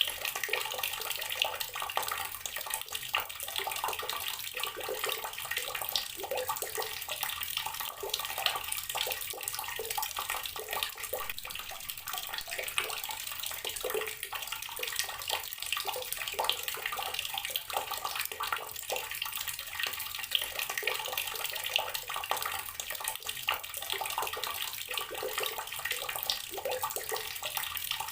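Water running steadily from an outdoor tap, splashing with a constant irregular patter.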